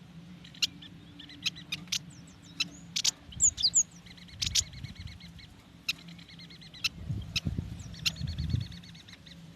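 Yuhina calling: sharp repeated chip notes and rapid buzzy trills, with a couple of quick falling whistles about three and a half seconds in. A low hum and some low rumbling run underneath, strongest between about seven and eight and a half seconds.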